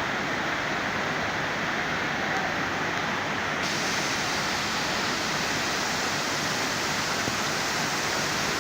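Floodwater rushing steadily, an even rushing noise with no breaks.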